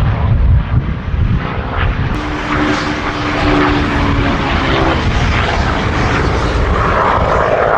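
P-51D Mustang's Packard Merlin V-12 engine running in flight, a steady propeller-driven drone with a strong hum through the middle that grows brighter near the end.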